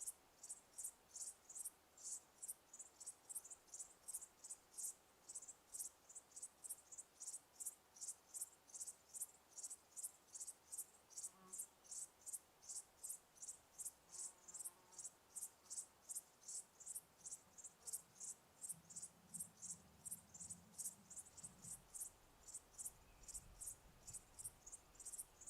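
Cricket chirping faintly in an even rhythm, about two high-pitched chirps a second.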